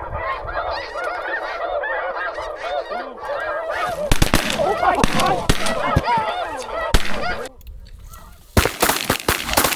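A flock of geese honking and calling over one another. Several sharp cracks cut through the calling about four to seven seconds in, and a louder noisy burst comes near the end.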